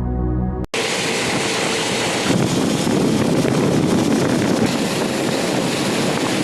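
Steady rushing noise of wind and traffic, coming in with a hard cut after soft ambient music stops under a second in.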